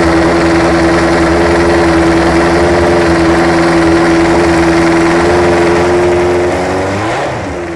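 Life Racing Engines 3.5-litre W12 Formula 1 engine running steadily, its pitch falling and the sound dying away near the end as it winds down.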